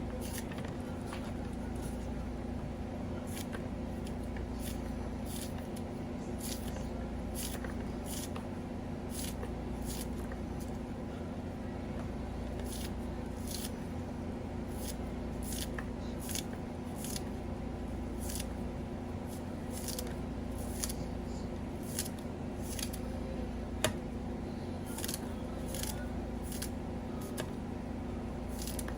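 Irregular light snips or clicks, roughly one or two a second, over a steady low hum.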